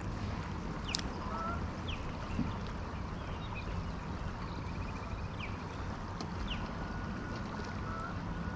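Steady wash of river water and wind around a fishing kayak, with a few faint short high chirps scattered through.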